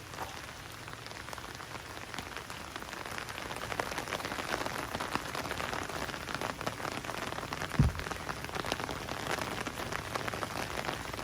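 Rain falling, with many separate drops ticking close by, growing a little louder a few seconds in. A single low thump comes about eight seconds in.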